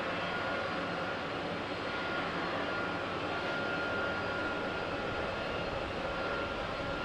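Jet airliner engines running steadily, a constant rushing noise with a thin high whine held through it.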